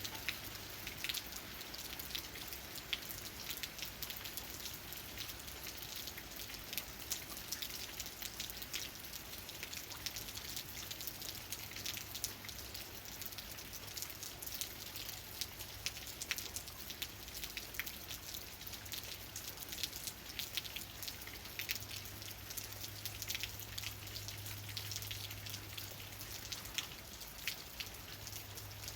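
Steady rain, with countless drops tapping on leaves as many small sharp ticks over a continuous hiss. A low steady hum runs underneath and grows stronger near the end.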